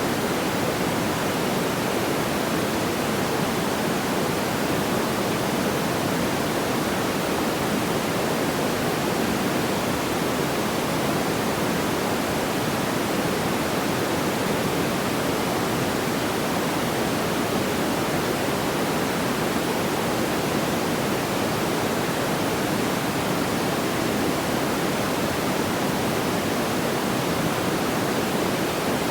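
Steady, even rushing noise, like pink noise, with no crackles or pops.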